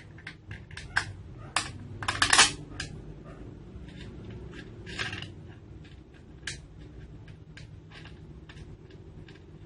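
Small metal parts and tools clicking and clinking while a chainsaw attachment is assembled onto an angle grinder, with a brief metallic rattle about two seconds in.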